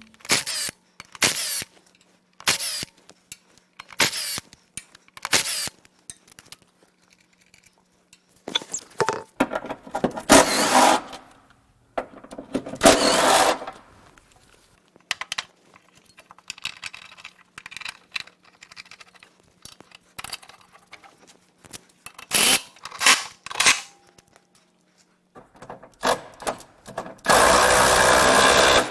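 Hand and power tool work: a series of short clanks and ratcheting bursts, then a power tool running steadily for about a second and a half near the end.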